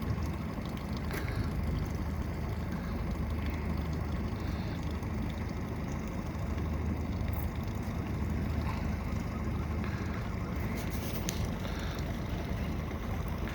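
A boat's motor running steadily with a low hum, with a couple of faint clicks.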